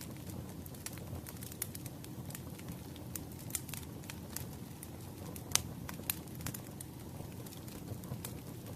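Firewood burning strongly, with a steady low rush of flames and frequent irregular crackles and pops; one louder pop about five and a half seconds in.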